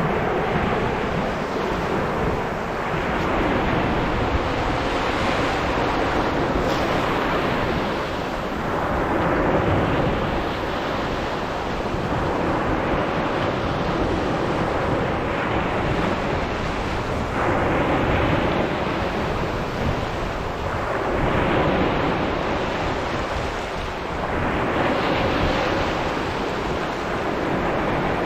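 Sea waves breaking and washing up a sandy beach: a continuous rush of surf that swells and eases every few seconds, with some wind on the microphone.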